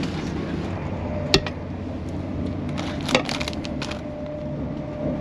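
Steady low running rumble inside a CrossCountry Voyager diesel train carriage on the move, with two sharp cracks a little under two seconds apart, the second followed by a quick flurry of lighter ticks.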